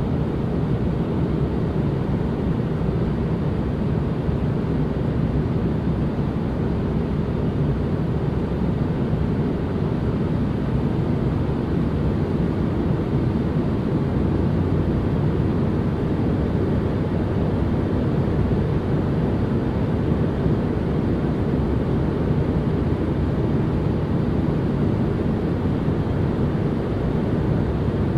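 Continuous white noise ambience: an even, unchanging deep rush with its weight in the low end and little hiss on top.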